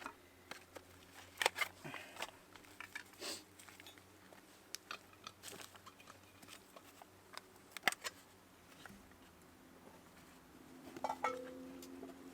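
Scattered crunches and sharp clicks of dry tinder and small sticks being handled and arranged to light a fire.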